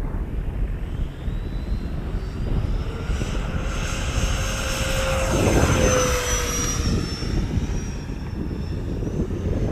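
The 70mm electric ducted fan of an FMS Yak-130 RC jet whining, rising in pitch over the first few seconds and loudest about six seconds in, with its pitch sagging slightly afterwards as it passes.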